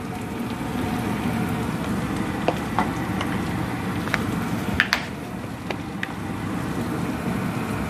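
Chopped onion and tomato frying in oil in a non-stick pan: a steady sizzle, with a few sharp crackles and pops around the middle.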